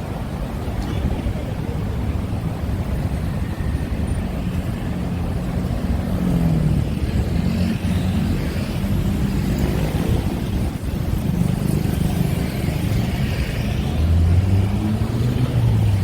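Large engine running close by, a low rumble whose pitch rises and falls, growing louder near the end.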